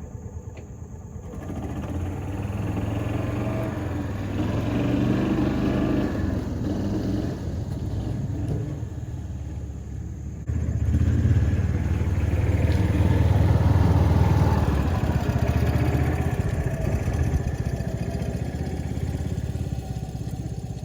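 A vehicle engine running and pulling, its pitch rising and falling as it works, with a sudden jump in loudness about halfway through.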